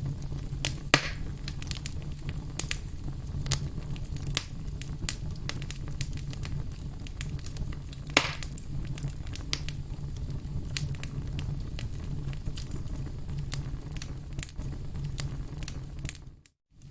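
Burning firewood logs crackling steadily over a low rumble, with a stream of small snaps and two louder pops about one second and eight seconds in. The sound cuts out for a moment just before the end.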